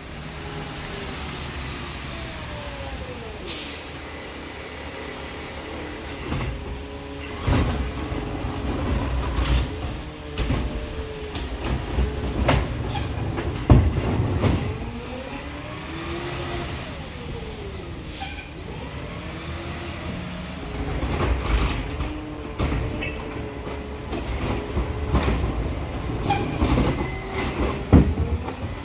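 Garbage truck's engine revving up and down as the hydraulic arm of a McNeilus ZR automated side loader works, with bangs and clatter from carts being lifted, emptied and set back down, in two rounds. Brief hisses of air are heard twice.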